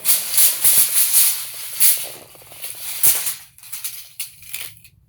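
Steel tape measure being handled, its blade pulled out and run back into the case with a loud rattling scrape in repeated bursts. The sound thins to a few separate clicks near the end.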